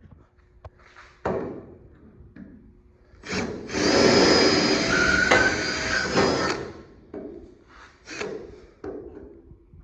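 Coarse 45-grit sandpaper scraping old paint and sticky residue off a steel car body: a few short scrapes and one longer stretch of loud, harsh sanding lasting about three seconds.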